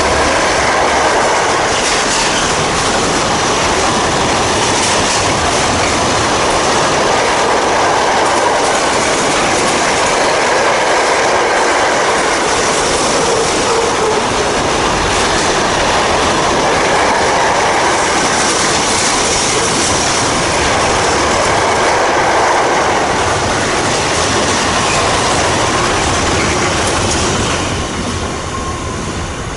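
Container freight train hauled by a GBRf Class 66 diesel locomotive passing through at speed. The locomotive goes by at the start, then a long, steady run of wagon wheels rolling past on the rails, fading away near the end.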